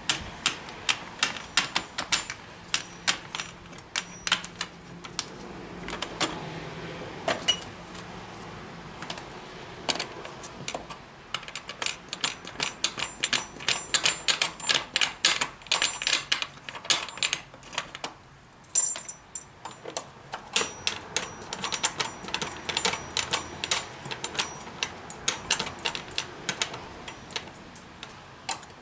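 Ratchet wrench clicking in quick runs of sharp ticks while the shipping nuts are undone from the underside of a generator, with a short pause about two-thirds of the way through.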